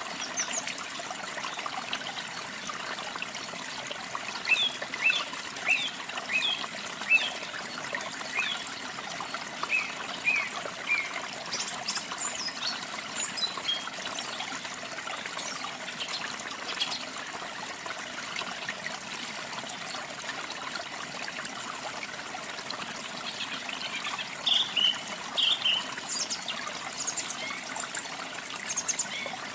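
Water trickling and splashing steadily, with small birds chirping over it in short runs of quick notes, two clusters of them, the first about four seconds in and the second near the end.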